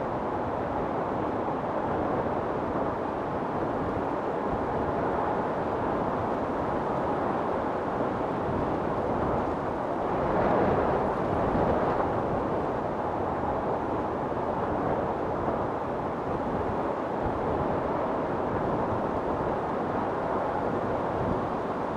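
Storm wind blowing steadily, with a gust swelling up and dying back about halfway through.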